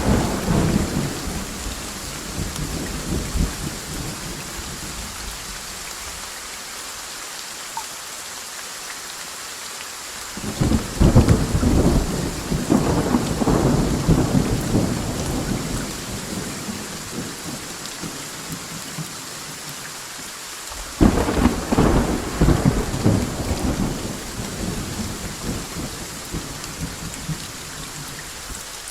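Thunderstorm: steady heavy rain, with a rumble of thunder dying away at the start, and two more peals of thunder, each breaking suddenly and rolling on for several seconds, about ten seconds in and about twenty-one seconds in.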